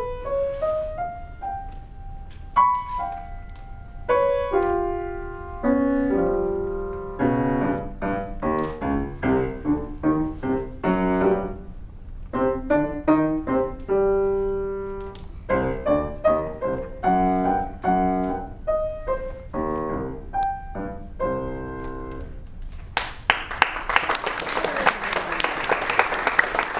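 Solo piano playing a short student piece in short groups of detached notes and chords, with a rising run at the start. The last notes sound about 23 seconds in, and audience applause follows.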